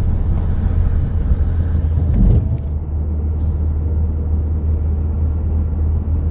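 Dust-storm wind rushing over the microphone above a steady low rumble. The high wind hiss drops away about two and a half seconds in, leaving the rumble.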